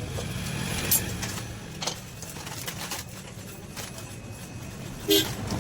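Three sharp metallic clinks and knocks of parts being handled, the loudest near the end, over a steady low hum.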